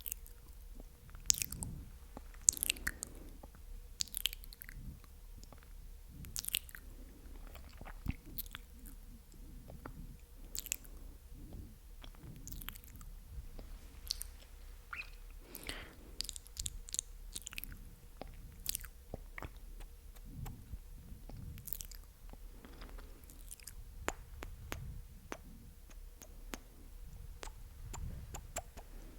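Close-miked ASMR mouth sounds: irregular wet, sticky clicks and smacks of lips and tongue, some sharper and louder than others.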